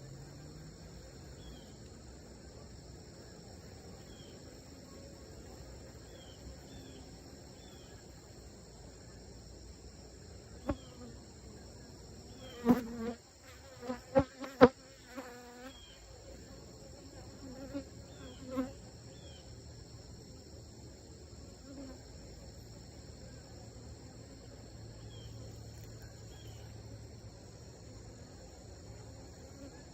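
Honeybees buzzing around an opened hive. Several fly close past the microphone between about 12 and 19 seconds in, giving loud, wavering buzzes, with a couple of sharp taps as bees bump into it. A steady high-pitched insect trill runs underneath.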